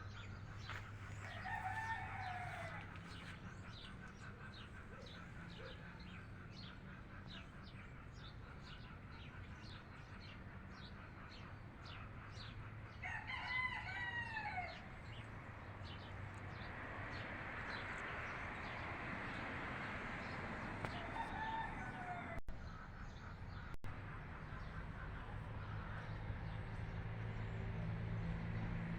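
A rooster crowing once, long and loud, about halfway through, with shorter fowl calls near the start and again later. Small birds chirp rapidly in the first half.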